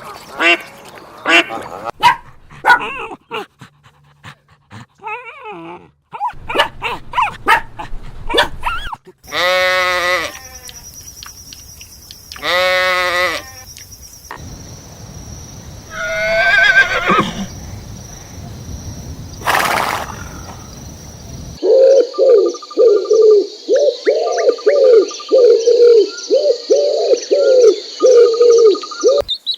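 A run of farm animal calls cut together. Short calls and clicks come first, then two long goat-like bleats of about a second each, and a fast series of repeated calls near the end.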